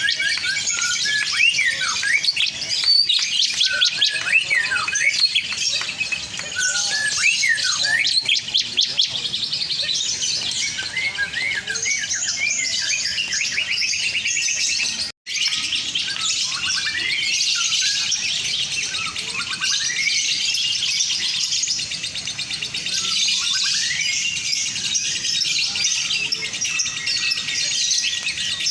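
Lovebirds chattering and trilling in long, dense, high-pitched song, many short rising and falling chirps overlapping, as at a lovebird singing contest. The sound cuts out for an instant about halfway through.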